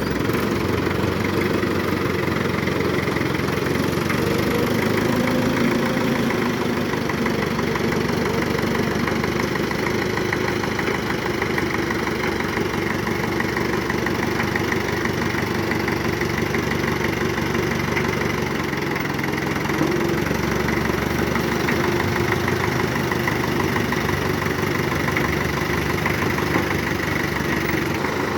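1971 Belarus tractor's diesel engine idling steadily, its speed unchanged throughout.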